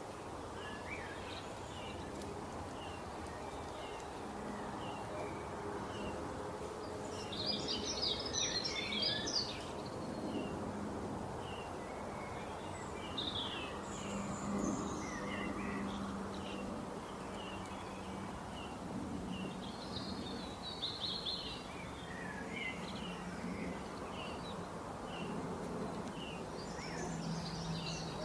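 Birds chirping in scattered flurries over a steady background noise.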